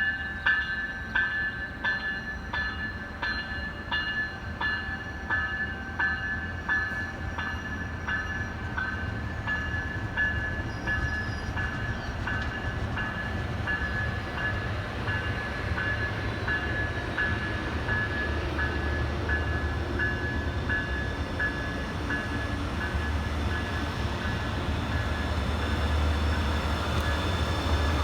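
Railroad crossing bell dinging steadily, about two strikes a second, growing fainter as the low rumble of an approaching train builds and becomes loudest near the end.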